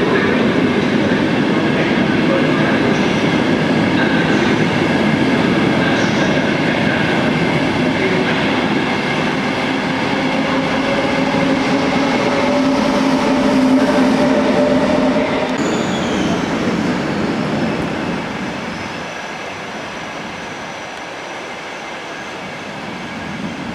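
Electric passenger train running past in an enclosed underground station: a steady loud rumble of wheels on rail with a faint motor whine that rises slightly in pitch about ten seconds in. The sound fades away from about sixteen seconds on.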